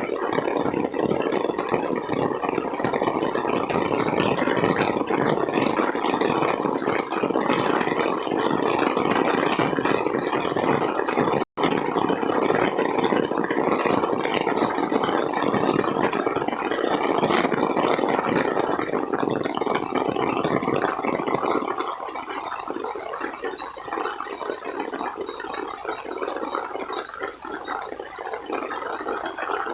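Heavy rain pouring down, a dense steady hiss. It cuts out for an instant about eleven and a half seconds in, and becomes a little quieter and thinner about twenty-two seconds in.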